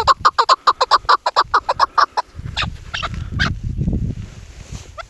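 Chukar partridge calling, given as a female's call: a fast, even series of short clucking notes, about eight a second, that breaks off about two seconds in, followed by a few scattered single calls over a low rumble.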